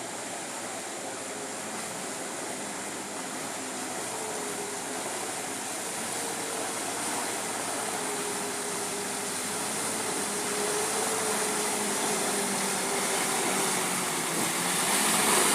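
Truck engine running steadily under a haze of noise, with a faint wavering whine, slowly growing louder.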